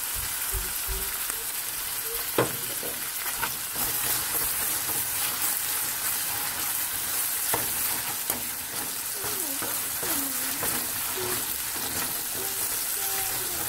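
Chopped onions and ginger-garlic paste sizzling in hot ghee in a pan, stirred with a metal spoon that taps sharply against the pan a couple of times. The paste is being fried to cook off its raw smell.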